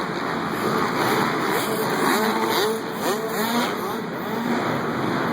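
Dirt bike engines revving up and down, their pitch rising and falling with the throttle, several overlapping between about two and four seconds in.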